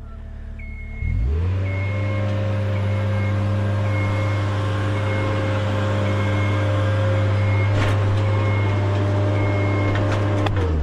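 A machine's motor starts up about a second in, runs steadily and winds down near the end, with a high-pitched warning beep repeating about once a second while it runs.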